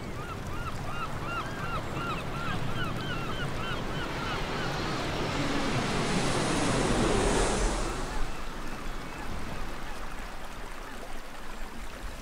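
A bird calling in a quick series of short, arched calls, about three a second, over the first few seconds, above a steady rushing noise of water and wind. The rushing swells to its loudest around seven to eight seconds in, then eases off.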